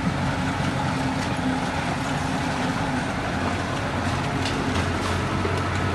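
Heavy construction machine's diesel engine running steadily, with a few faint high clicks about four to five seconds in.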